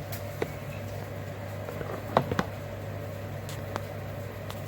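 A steady low machine hum, with a few short sharp clicks: one about half a second in, a pair a little over two seconds in, and one near the end.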